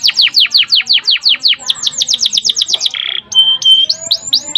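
Domestic canary singing a long rolling trill of fast, evenly repeated downward-sweeping notes, about eight a second. About three seconds in it breaks into a short buzzy note, then two held whistles and quick rising sweeps.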